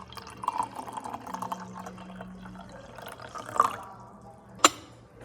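Café background sound: water running, with small clinks of cups and dishes and one sharp clack near the end.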